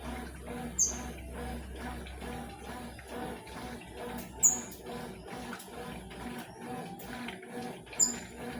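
Consul 12 kg washing machine running a wash load of bedsheets, with a steady, even rhythmic churning. Three short, high chirps stand out about a second in, midway and near the end.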